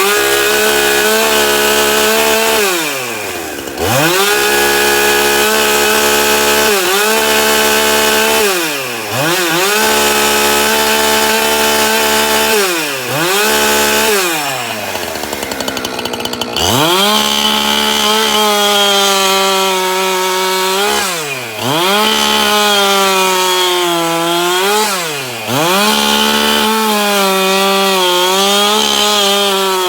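Husqvarna 365 two-stroke chainsaw running at high revs, its engine pitch dipping sharply and climbing back about six times.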